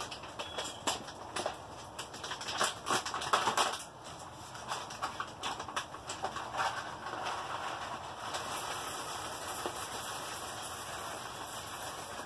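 Ziploc plastic bag of coffee beans being handled: irregular crinkling and rustling with scattered clicks of the beans, busiest in the first few seconds and settling into a steadier rustle later.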